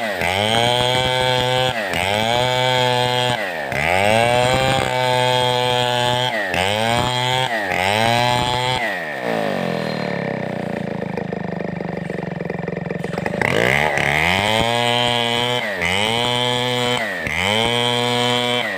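Large two-stroke 070-class chainsaw running hard, its engine pitch sagging and recovering about once every second or so. Around the middle it drops to a low idle for about four seconds, then revs back up and the sagging pattern returns.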